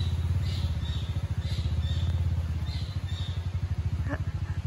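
Bored-out Honda CRF dirt bike's single-cylinder engine running steadily at low revs, a fast even thumping with no revving.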